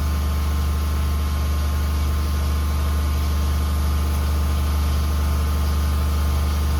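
Steady low mechanical hum of a running machine, unchanging in pitch and level.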